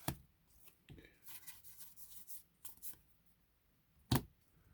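Pokemon trading cards being handled: soft card slides and light taps on a table, with a sharper tap about four seconds in.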